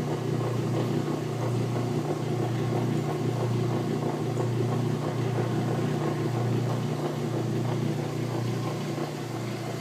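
Repaired washing machine running with a steady low hum, its drain and spin cycle sounding normal with no abnormal noise; the hum drops a little near the end.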